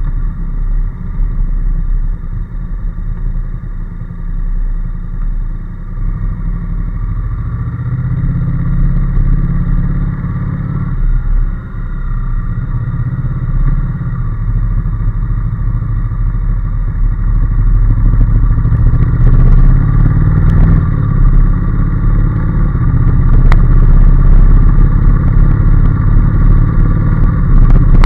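Honda NC750S's 745 cc parallel-twin engine running under way on the open road, steady at first and growing louder through the second half.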